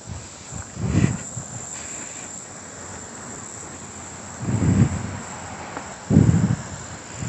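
Insects chirring steadily in a thin, high drone. Three low muffled bumps come about a second in, near five seconds and just past six seconds, and these are the loudest sounds.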